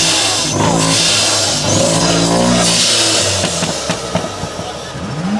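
Performance car engine revving loudly, its pitch rising and falling several times with a rasping exhaust, and a fresh rev climbing near the end.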